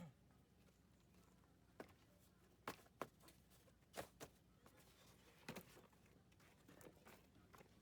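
Near silence broken by faint, scattered clicks and taps, about half a dozen, like small things being handled or set down.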